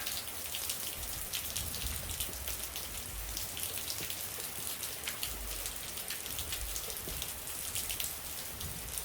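Steady rain falling, an even hiss of drops with many small ticks, and a few soft low rumbles now and then.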